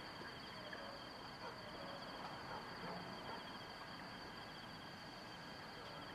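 Faint ambience of insects chirring steadily in two high, finely pulsing bands, with a few soft scattered chirps beneath.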